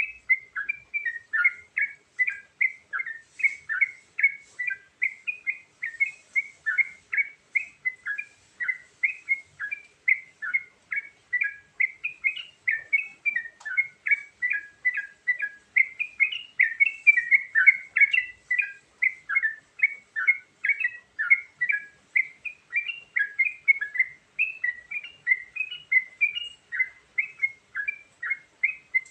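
Yellow-vented bulbul (trucukan) singing nonstop: quick, bubbly chirping phrases repeated several times a second, with varied notes mixed into its song.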